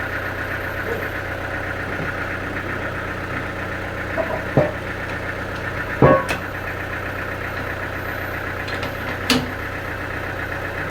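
Sawmill engine running steadily, with four sharp knocks over it, the loudest about six seconds in.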